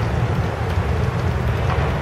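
A freight train led by an EMD GP40-2 diesel locomotive, with its 16-cylinder two-stroke engine, crossing a steel truss bridge, heard as a steady low rumble, with wind buffeting the microphone.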